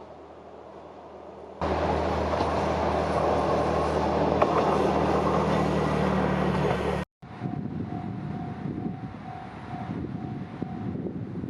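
Diesel railcar (KiHa 120) engine running and train noise, cut between shots: a low engine hum that jumps suddenly much louder less than two seconds in, a brief dropout a little past halfway, then quieter running noise with a steady pulsing high tone.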